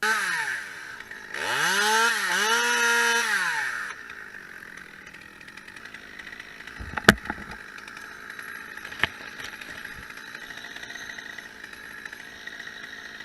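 Two-stroke chainsaw revving: its pitch falls off at first, then it runs at high revs for a couple of seconds with dips in pitch as the chain takes load, then drops back to a quieter idle. A sharp knock comes about seven seconds in and a lighter one about two seconds later.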